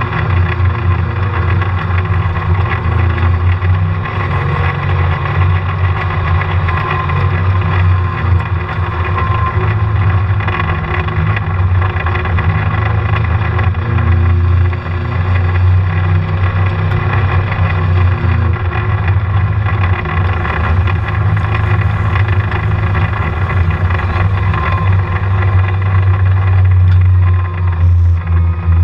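Polaris RZR side-by-side running steadily while being ridden: a continuous engine and drivetrain drone with a steady tone over it, holding nearly constant speed throughout.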